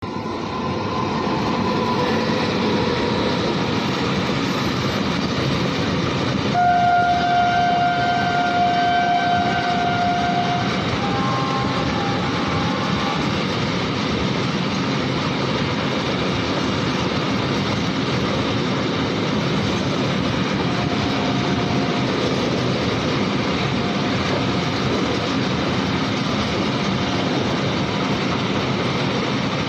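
A long freight train running steadily. About seven seconds in, a locomotive horn sounds for about four seconds, followed by a shorter horn note at a slightly different pitch.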